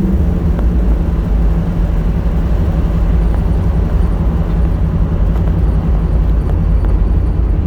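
1978 Pontiac Trans Am's V8 running steadily under way, heard from inside the cabin as a loud, even low rumble mixed with road noise.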